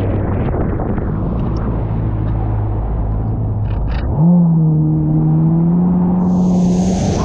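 Jet ski engine running steady, its pitch jumping up abruptly about four seconds in and rising slightly as the throttle opens. A brief rushing hiss comes near the end.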